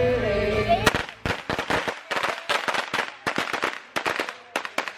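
Firecrackers popping in quick, irregular succession, several sharp cracks a second, starting abruptly about a second in after a short stretch of background music.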